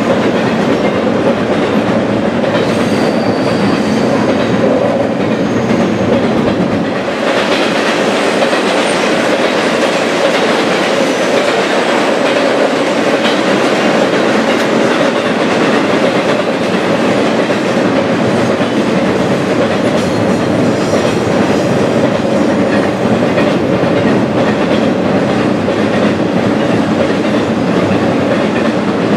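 Double-stack intermodal container train rolling across a steel trestle bridge. A steady, loud rumble and rattle of the passing cars, with the wheels clicking over the rail joints.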